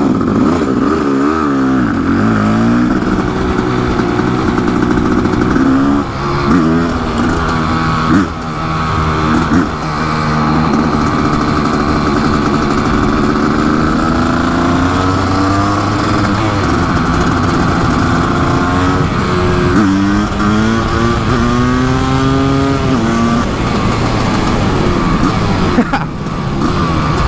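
Kawasaki KX500's big-bore single-cylinder two-stroke engine under way, its note climbing as it pulls and dropping sharply at each gear change, several times over. The owner says the jetting is still off and fouling plugs.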